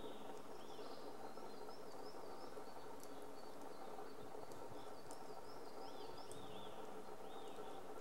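Birds calling in series of short, high, arched notes, over a steady hiss, with a couple of sharp ticks.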